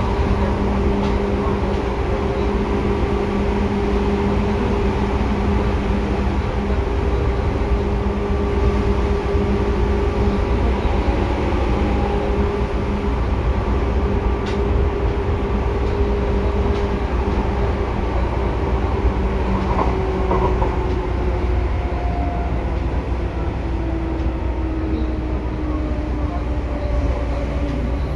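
Inside a Seibu 2000 series electric train car running, with rumbling and a steady hum under the floor. In the second half the motor and gear tones slide slowly down in pitch as the train slows.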